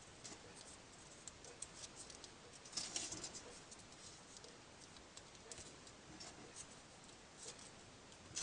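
Faint rustling and small clicks of folded paper pieces being handled and slotted into a 3D origami model, with a louder rustle about three seconds in.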